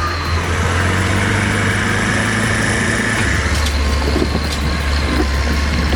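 Diesel engine of an LKT-81 Turbo forestry skidder running steadily, its low note dropping a step about three seconds in.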